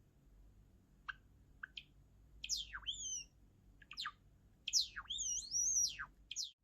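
Java sparrow singing: a few short, sharp notes, then from about two and a half seconds in a run of louder notes that slide up and down in pitch.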